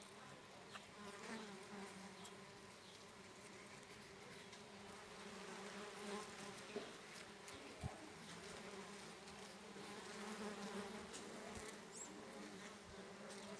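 Flying insects buzzing, a faint steady low hum, with a few soft clicks near the middle.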